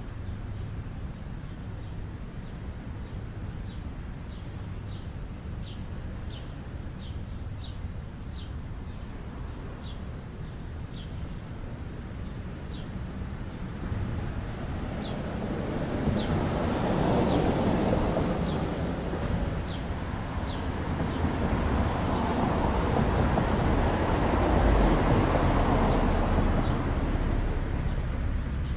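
Small birds chirping outdoors: many short, high, falling chirps, scattered through the first two-thirds. About halfway through, a broad rushing noise builds up and stays louder to the end.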